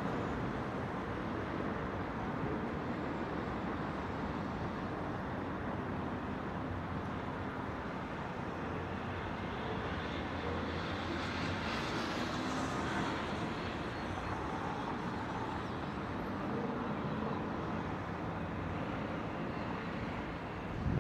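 Distant city traffic rumbling steadily, a dense mix of engines and tyre noise, with a passing vehicle's hiss rising and fading around the middle.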